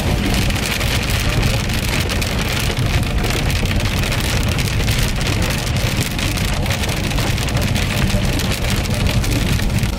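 Heavy rain pelting a moving car, a dense, steady patter over a constant low road rumble.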